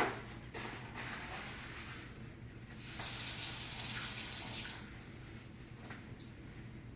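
Water running from a sink tap. The flow gets louder about three seconds in and stops about five seconds in.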